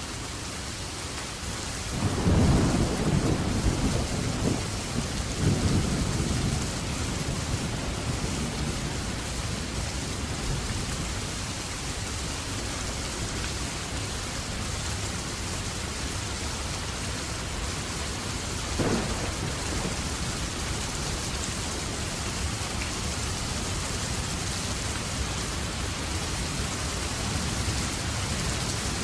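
Steady rain with thunder: a loud low rumble of thunder rolls in about two seconds in and swells twice before fading, and a short, sharper clap comes about two-thirds of the way through.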